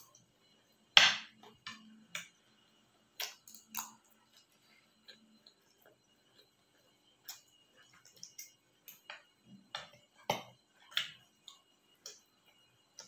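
Eating sounds close to the microphone: irregular short crunches and clicks from chewing fried food, the sharpest about a second in and another about ten seconds in.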